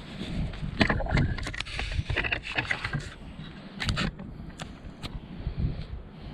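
A series of sharp knocks, clacks and rattles, clustered about a second to three seconds in with single knocks after, over a low rumble like wind on the microphone.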